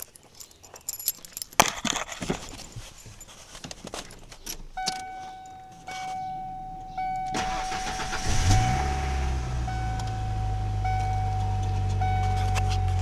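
Keys jangling and door and cab clicks, then a steady warning chime, then the 1992 Ford Ranger's 2.3-litre four-cylinder engine cranking on the starter, catching about eight seconds in with a brief rev and settling into a steady idle.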